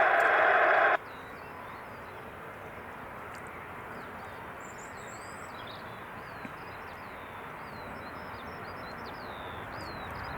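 A loud burst of radio static that cuts off about a second in. Then small birds chirp repeatedly in short falling notes over a steady distant airport rumble that slowly grows louder toward the end.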